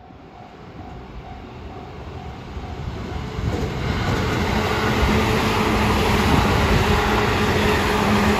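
Electric commuter train passing a level crossing, its rumble and wheel noise building steadily and loudest from about four seconds in. Early on the crossing's warning bell dings at an even quick pace, then is covered by the train.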